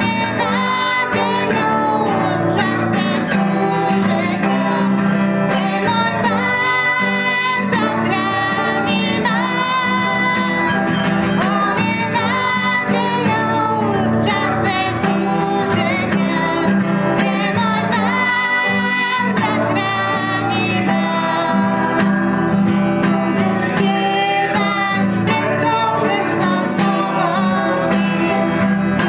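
Worship song: a woman's voice singing in Slovak over strummed acoustic guitar.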